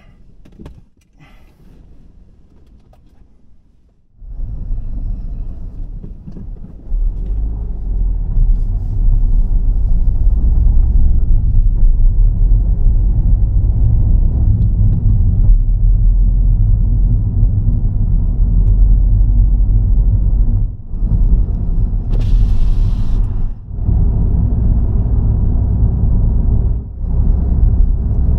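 Car driving: a steady low rumble of road and engine noise that starts about four seconds in, with a few short drops and a brief hiss near the end.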